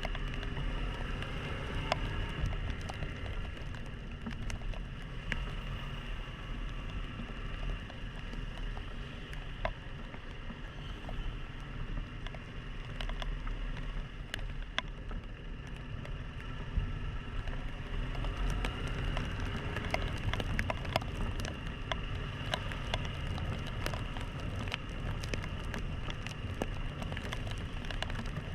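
Yamaha XTZ 150 Crosser's single-cylinder engine running steadily while riding in the rain, with rain patter and scattered sharp ticks of raindrops hitting the camera.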